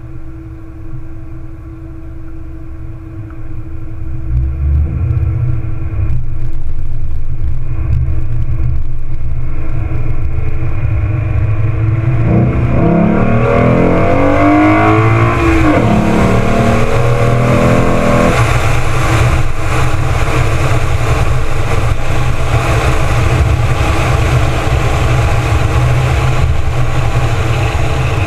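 2014 Ford Mustang's 3.7-litre V6 with automatic gearbox, starting out steady, then pulling away and accelerating, its pitch rising and dropping through the gear changes. It settles into steady cruising, with wind and road noise rushing over the exterior-mounted microphone.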